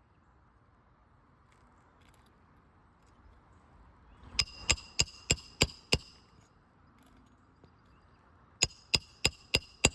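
Roofing hammer striking a steel roof snake to drive nails back into a shingle: a run of six quick ringing blows, a pause, then five more.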